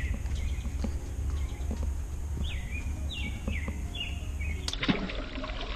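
A songbird singing a quick run of four or five falling notes about halfway through, over a steady low rumble. Near the end the sound changes abruptly to a cluster of small clicks.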